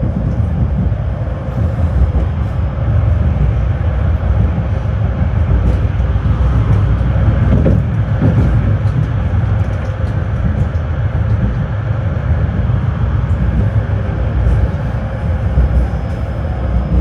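Electric tram running between stops: a steady low rumble of steel wheels on rails, with a brief rise and fall in pitch about halfway through.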